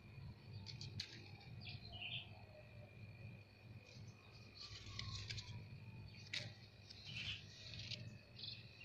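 Small birds chirping in short bursts several times, over a faint steady high tone and low background rumble. Two sharp clicks, one about a second in and one past six seconds.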